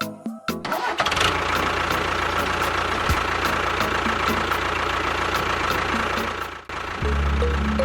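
A motor or engine running steadily for about six seconds, starting and stopping abruptly, with short stretches of music before and after.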